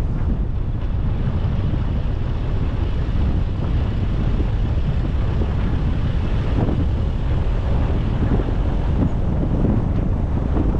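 Wind buffeting the microphone over the steady low rumble of a car driving along a road.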